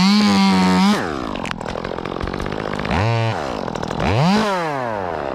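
Chainsaw engine held at high revs for about a second, then dropping to idle, with two short blips of the throttle later on.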